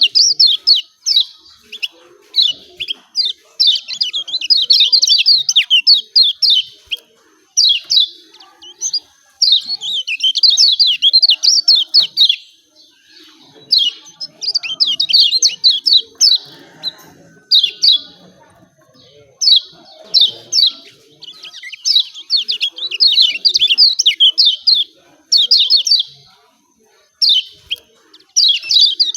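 Kecial kuning white-eye singing its rapid 'ciak ciak' chirping song: fast runs of high, sharp chirps in bursts of one to two seconds with short pauses between.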